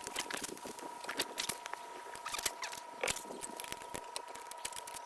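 Irregular small clicks and light rattles of objects being handled, over a faint steady high-pitched tone.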